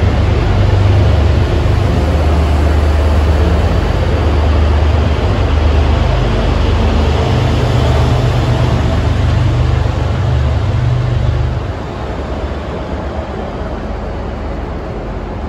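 MBTA commuter rail train departing in push-pull, bilevel coaches rolling past with steady wheel and rail rumble under the low drone of its diesel locomotive at the rear. The engine drone drops away sharply about eleven and a half seconds in as the locomotive pulls past and away, leaving a fainter rumble.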